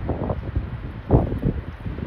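Wind buffeting the microphone in irregular gusts, with a strong gust about a second in.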